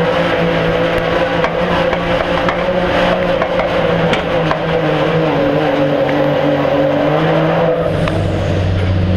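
Pro street diesel pulling truck's engine running hard under load, heard from on board. About eight seconds in the high-pitched part of the sound drops away and it settles to a lower, steady tone.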